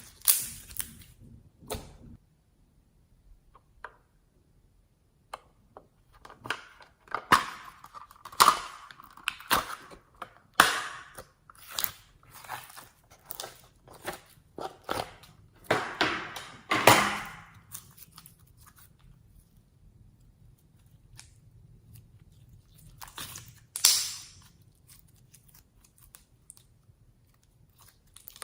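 Slime being squished and mixed by hand, making irregular sticky clicks, pops and squelches. They come thick and fast for a stretch in the middle, then thin out, with one more loud squish near the end.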